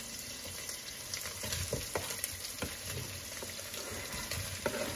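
Chopped onions sizzling in a pot with a steady hiss, while chopped tomatoes are scraped off a wooden cutting board into the pot with a spoon, giving scattered light knocks and taps.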